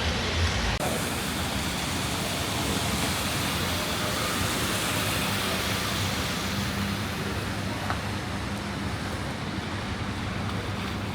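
Street traffic noise: a steady wash of road noise from passing vehicles, with a faint low hum underneath.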